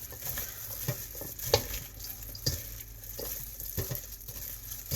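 Gloved hands mixing sliced squid and vegetables in chili-vinegar sauce in a bowl: wet squishing with irregular soft clicks.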